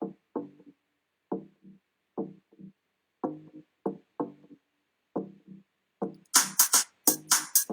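Soloed electronic-production bass line playing short, clipped notes in a syncopated repeating pattern, with a programmed drum beat coming in about six seconds in.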